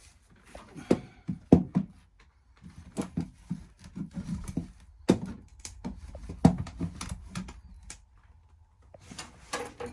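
Irregular knocks, clicks and scrapes of metal parts being handled as a gas water heater's burner assembly is fitted back into place, with a brief lull about eight seconds in.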